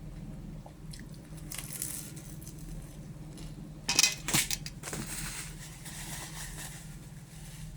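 Crunchy food being bitten and chewed close to the microphone, with a few loud sharp crunches about four seconds in, over a steady low hum.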